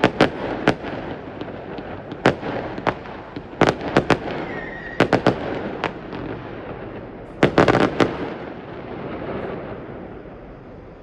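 Fireworks going off in scattered sharp bangs, with a quick cluster of cracks about seven and a half seconds in, then dying away near the end.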